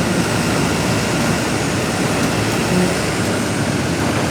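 Heavy-vehicle engine running steadily under load: an even, dense noise with a low hum and no breaks.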